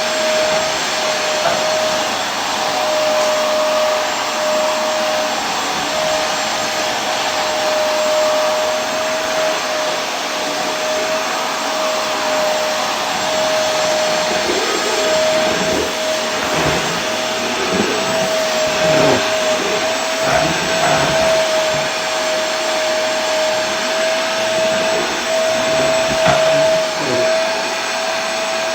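Vacuum cleaner running steadily: a constant motor whine over a rushing hiss, with some uneven low fluttering through the middle stretch.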